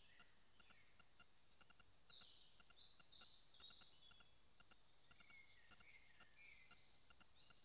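Faint birdsong: a cluster of high, quick whistled phrases about two seconds in, then lower whistled phrases near the end, over a faint steady hiss.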